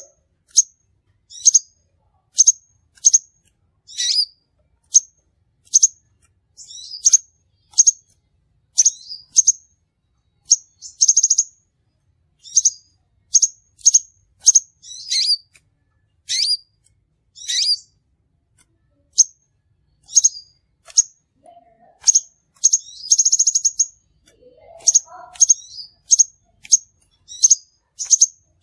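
Crimson sunbird giving short, sharp, high chip calls over and over, about one to two a second, with a couple of brief rapid trills among them.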